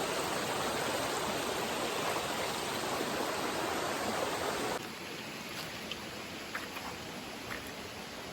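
Shallow river water running over rocks, a steady rush. About five seconds in it cuts off abruptly to a much quieter background with a few faint ticks.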